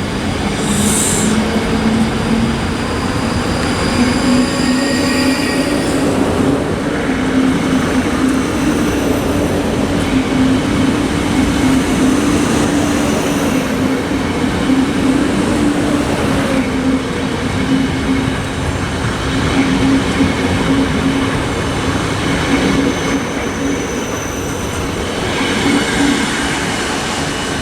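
Two coupled Class 458 electric multiple units pulling out, their traction motors whining with a tone that rises over the first few seconds and then holds steady. There is a short hiss about a second in, and a high wheel squeal now and then.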